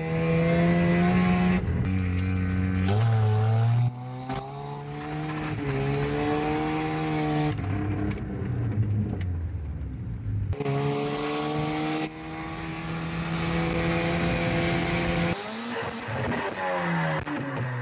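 1983 Mazda RX-7's Wankel rotary engine, heard from inside the cabin while driving, its pitch climbing and dropping with throttle and gear changes across several cut-together clips. Near the end it is heard at the tailpipe, revving in quick rising and falling sweeps.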